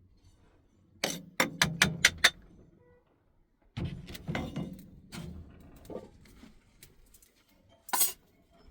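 A quick run of about six sharp knocks of hard objects, then scraping and handling noise, and one more sharp knock near the end.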